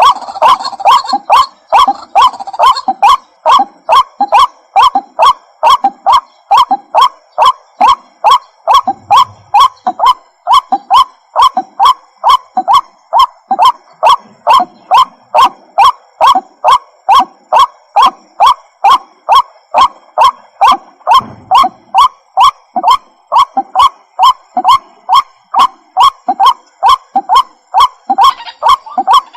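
White-breasted waterhen calling its monotonous "ruak-ruak": loud, sharp notes about two a second, repeated evenly on and on.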